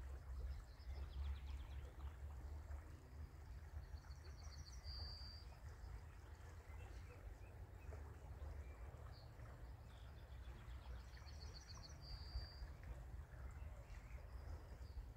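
Faint outdoor ambience: a songbird sings twice, each song a quick run of high repeated notes ending in a longer held note, with a few single high notes between, over a steady low rumble.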